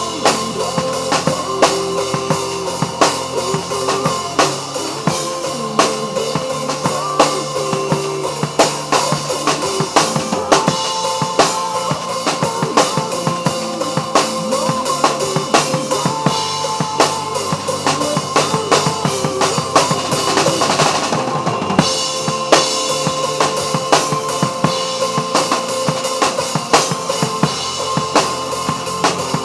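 Drum kit played busily, with dense kick, snare and rim-shot hits, over a recorded musical backing of held, pitched tones. It is an instrumental stretch of a pop song drum cover.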